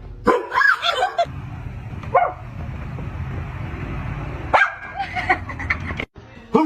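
A dog barking and yipping in several short bouts, over a low rumbling noise.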